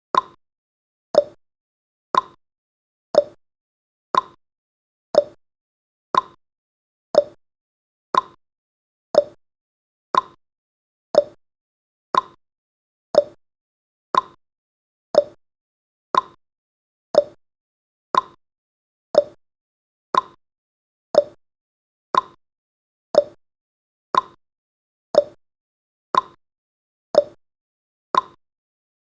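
Timer tick sound effect: a short pitched click once a second, each fading quickly.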